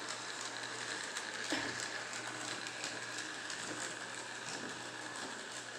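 Toy train running along its track: a faint, steady whirr with light, irregular clicks.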